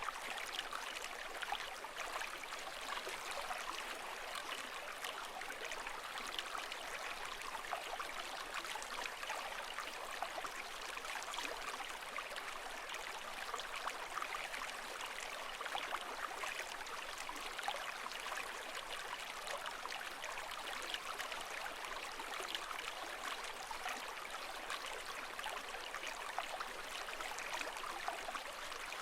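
Steady running water, an even, continuous wash of fine splashing and trickling with no swells or pauses.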